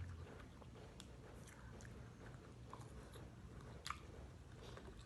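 A person chewing food close to the microphone, with faint small crunches and clicks, the sharpest nearly four seconds in.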